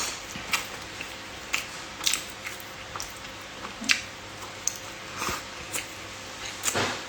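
Close-up eating sounds: irregular wet smacks and clicks of someone chewing food, about one or two a second.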